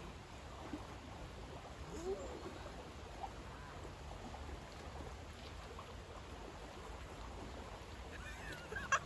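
River water flowing, a steady low rush. A short, sharp sound near the end.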